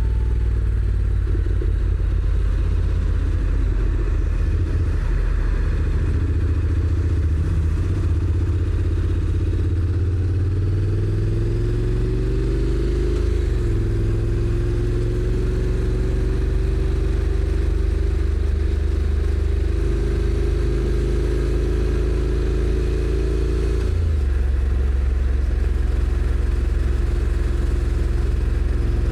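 Honda NC750X's parallel-twin engine running under way, with pitch rising on acceleration about a third of the way in and a brief break as the dual-clutch transmission shifts up. The pitch then keeps climbing slowly until it drops suddenly near the end.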